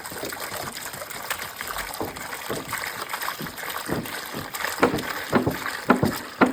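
Distilled water being poured out of a gallon jug, splashing unevenly, with the splashes getting louder over the last couple of seconds. This is the rinse stage of a tankless water heater flush, after the vinegar descaling.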